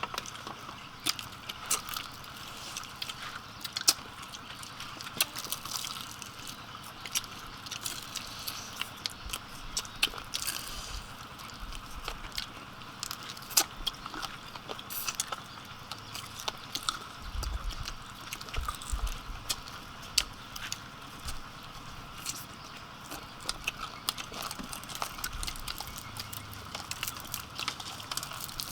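Irregular clicks and crunches of someone eating fried chicken feet, over a faint steady background, with a few low thumps about two-thirds of the way through.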